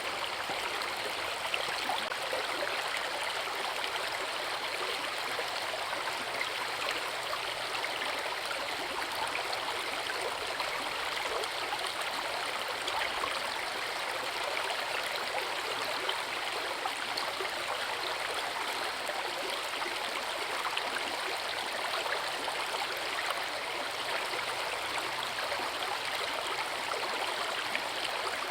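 Forest river rushing over a waterfall: a steady, even splashing and gurgling of running water.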